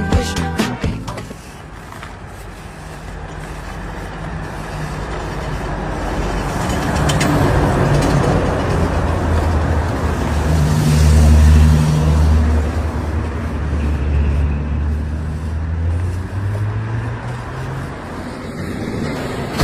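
A motor vehicle's engine hums low under road noise. It grows steadily louder to a peak about eleven seconds in, then eases off.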